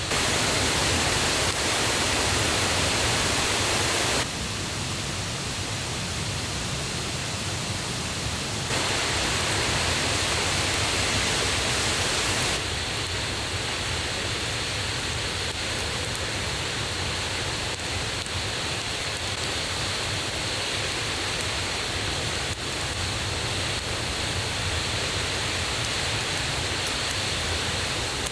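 Swollen mountain stream and waterfall, running high after the previous day's rain: a loud, steady rush of water. Its loudness and tone shift suddenly a few times.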